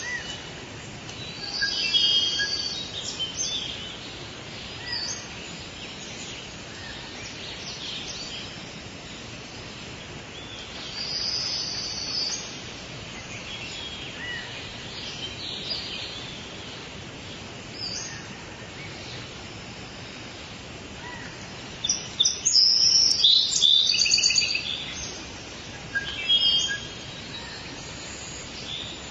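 Several birds calling and chirping over a steady background hiss of forest ambience, with scattered short calls and a loud cluster of rapid chirps about three-quarters of the way through.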